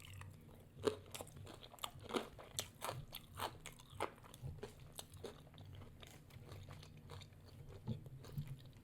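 Close-miked chewing of crispy fried food, with irregular crunchy crackles every half second or so.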